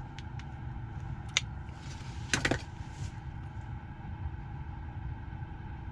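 Steady low hum inside a car's cabin, with a few light clicks; the loudest is a quick double click about two and a half seconds in.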